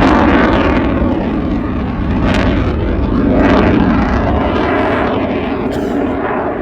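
Fixed-wing aircraft flying past: a loud, continuous engine roar with a deep rumble. It dips about two seconds in, swells again a second later, then eases off near the end.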